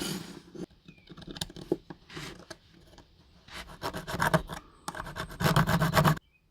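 Runs of rapid scraping and scratching strokes of hand work on a small diecast model car, the loudest run near the end, stopping abruptly.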